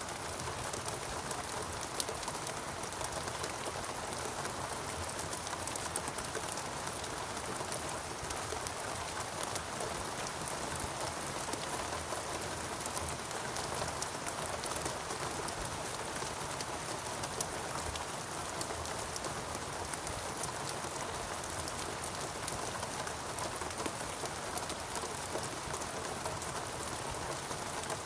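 Steady rainfall pattering on foliage and surfaces, with individual drops ticking over a continuous hiss.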